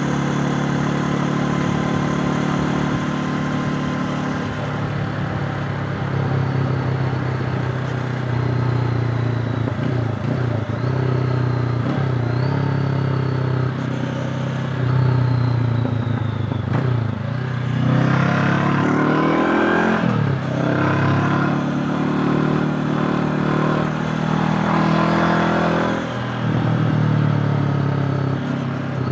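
Honda CB500X's parallel-twin engine running while the motorcycle is ridden, its pitch falling and rising through gear changes and throttle. In the second half it revs harder several times in quick succession.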